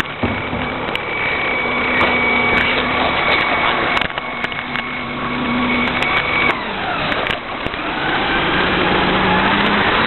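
Rear-loading garbage truck running, its engine and hydraulics making a steady whine. About two-thirds of the way through the whine breaks off and slides in pitch, and a new lower tone comes in near the end. Scattered clanks and knocks run through it.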